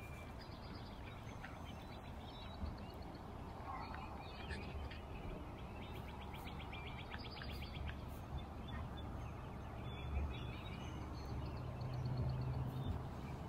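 Birds singing and chirping, with a fast trill of rapidly repeated notes about six seconds in, over a faint low rumble.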